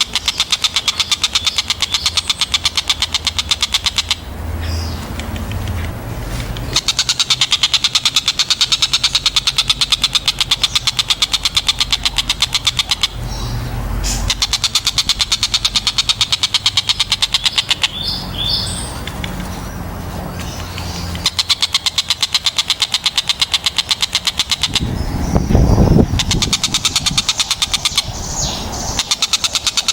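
Stork-billed kingfisher (tengkek buto) giving a very fast, even rattling chatter in long runs, broken by several short pauses. A low rumble shows in the pauses, loudest about five seconds before the end.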